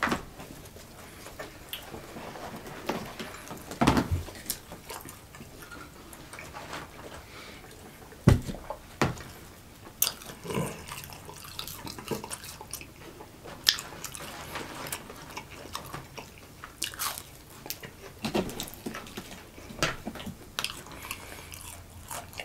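People chewing and biting into fried chicken nuggets and fries, with irregular crunches and clicks, a few sharper than the rest.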